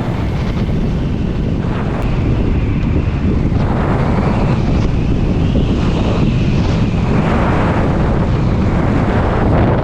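Heavy wind noise rumbling on the microphone of an action camera on a moving motorcycle, loud and steady, with road noise mixed in.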